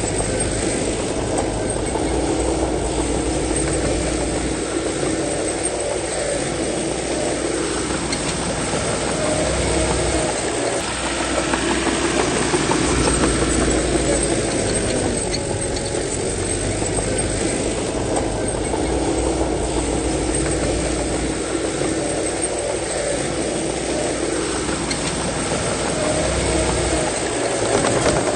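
Bulldozer's diesel engine running steadily under load, its pitch rising and falling in slow cycles.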